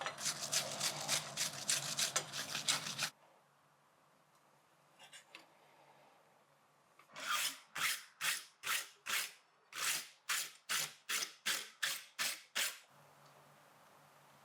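Hand file rasping across the tip of a forged steel rod to clean it up. There is a run of quick strokes that stops abruptly about 3 seconds in, then, after a quiet gap, about fifteen even strokes at a slower, steady pace before it stops near the end.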